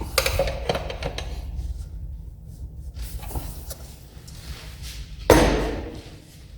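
Scattered knocks and clunks of hard objects being handled, over a low steady hum, with one loud thump about five seconds in that dies away over a second.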